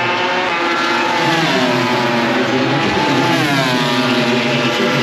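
MotoGP racing motorcycles' four-stroke engines screaming at high revs, more than one heard at once, their pitch falling and rising as they change speed and gear.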